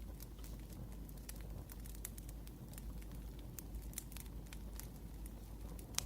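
Wood fire crackling: a steady low rumble with irregular sharp pops and snaps, one louder pop near the end.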